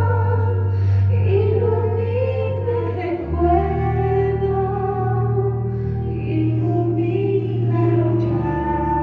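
Music: a solo voice singing a slow, held melody over sustained low accompaniment notes, the bass note changing about three seconds in and again near the end.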